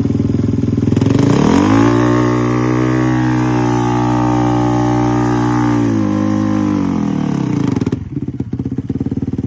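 Dirt bike engine revving up, holding high revs for about four seconds, then dropping back; near the end it turns to a rough, uneven rumble.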